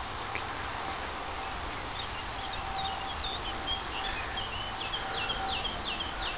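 A small songbird singing a run of short, repeated high chirps, building from about two and a half seconds in to a quick series near the end, over a steady background hiss.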